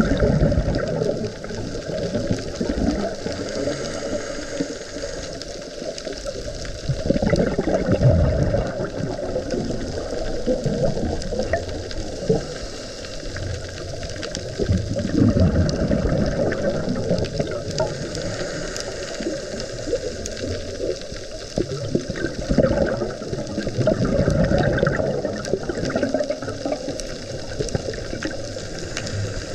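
Underwater sea sound picked up by a camera below the surface: water rushing and sloshing in irregular surges, with scattered faint clicks.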